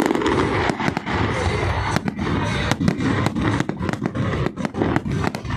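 Fireworks display: a dense barrage of sharp firework bangs and pops, several a second at an irregular pace, with music playing underneath.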